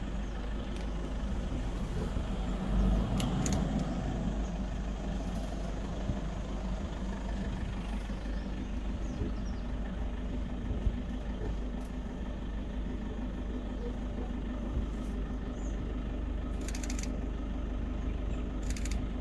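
Safari vehicle running and driving over a park track: a steady low engine and road rumble, with a few short knocks and rattles along the way.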